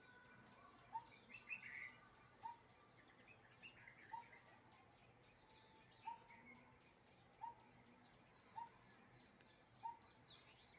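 Coppersmith barbet calling: a single low 'tuk' note repeated steadily, about seven times, roughly every one and a half seconds. Other small birds chirp higher and fainter behind it.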